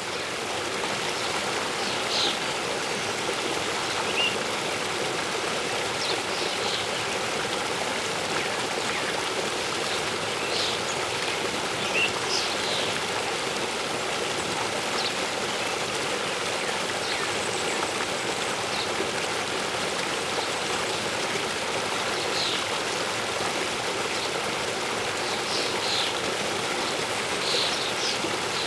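Steady rush of a waterfall, with short high bird chirps scattered over it, more of them near the end.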